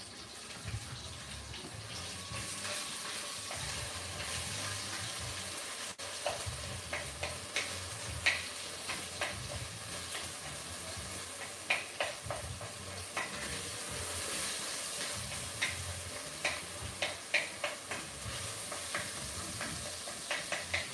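Loose sausage meat with onion, bell pepper and celery sizzling steadily in a hot pot, while a wooden spoon breaks it up, the spoon tapping and scraping against the pot in short irregular clicks that come more often in the second half.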